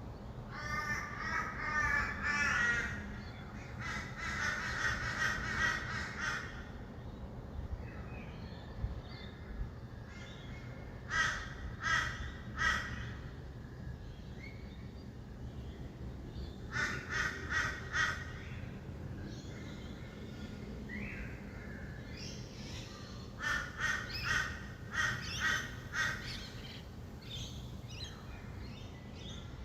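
Rainbow lorikeets screeching in about five bursts of rapid, harsh, repeated calls, over a steady low hum of distant city traffic.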